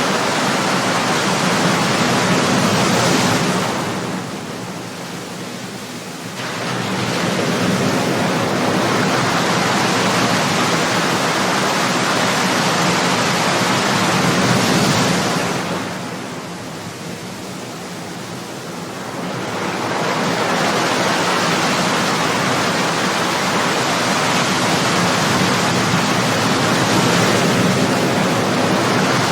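Ocean surf: waves breaking and washing on the shore in a continuous rushing wash that eases twice as the water draws back between breakers.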